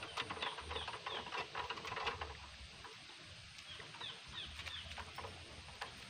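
Faint bird chirps: short falling calls in two quick runs, one early and one past the middle, with a few faint clicks.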